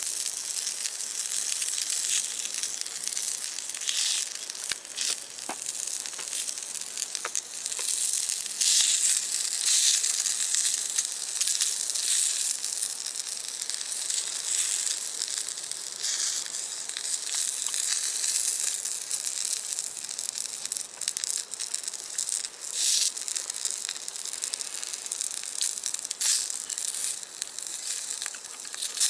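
Food sizzling in a cast-iron skillet, a steady hiss scattered with short crackles and pops that swells louder now and then.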